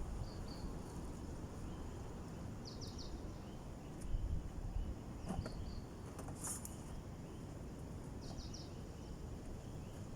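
Strong wind rumbling on the microphone, with short high chirps heard several times, some in quick threes.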